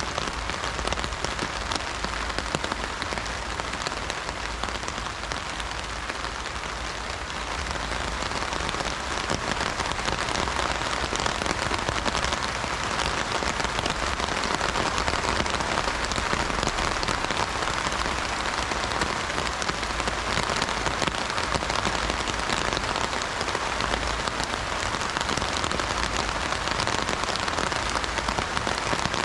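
Heavy rain falling on an umbrella: a dense, steady patter of countless drops, growing a little louder about eight seconds in.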